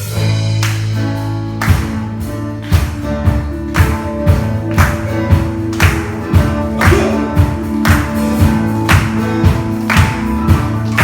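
Live worship band playing a song intro: sustained bass and guitar chords come in at once, and drums join about two seconds in with a steady beat of about two strokes a second.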